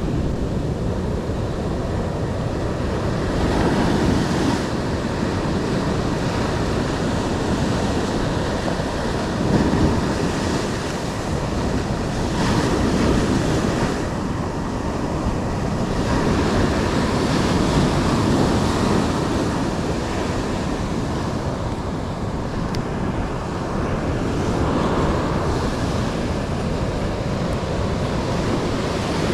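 Ocean surf washing onto a beach, swelling and easing every few seconds, with wind rumbling on the microphone.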